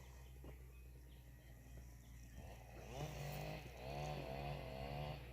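A steady low hum, joined about halfway through by an animal's repeated drawn-out calls, each bending in pitch.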